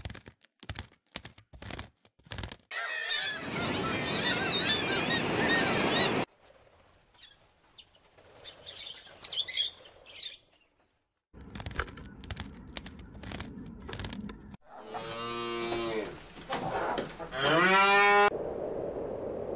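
Cattle mooing: two long moos near the end, the second rising in pitch and the loudest sound here. They come after a run of separate short sounds: sharp clicks, a loud stretch of dense wavering calls, faint high chirps, and more clicking.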